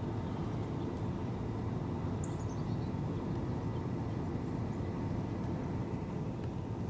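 Steady low outdoor rumble, with a brief run of high bird notes falling in pitch about two seconds in.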